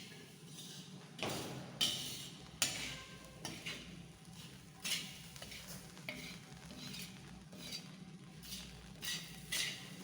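A metal ladle scraping and clinking in irregular strokes against a large pan as grated coconut and masala are stirred while they roast, over a low steady hum.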